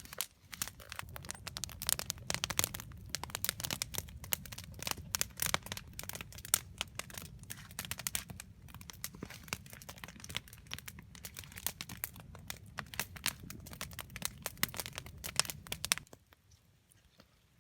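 Wood campfire crackling and popping with many irregular sharp snaps over a steady low rumble, stopping abruptly near the end.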